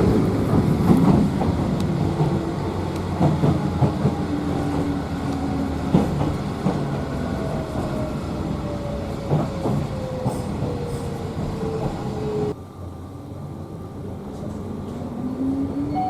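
Electric train running on the rails, its motor whine falling steadily in pitch as it slows, with occasional clicks over rail joints. About twelve seconds in the sound drops away abruptly, and near the end a rising whine comes in as a train pulls away.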